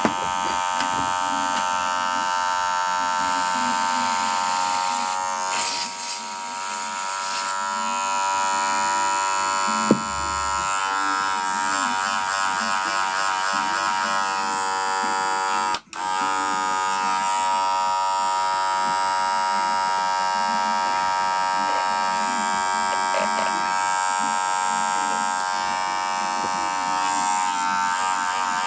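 Wahl Senior electric hair clipper running with a steady, high buzz. It cuts out briefly about halfway through, then starts again.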